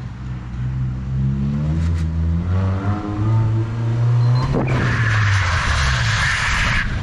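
Toyota Corolla rally car's engine revving up under acceleration, its pitch rising over a few seconds. About four and a half seconds in the revs drop and a loud rushing hiss joins for about two seconds.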